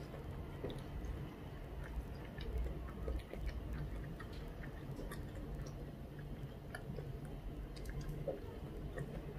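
Quiet chewing of boiled soybeans, with scattered small clicks as the pods are pulled apart by hand and mouth.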